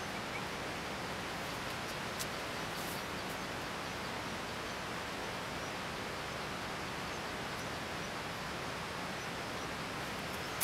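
Heavy rain falling steadily through forest foliage, an even hiss with a few faint ticks.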